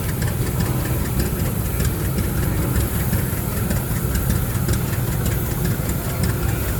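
Tractor engine running steadily at idle, a continuous low rumble with a faint ticking above it.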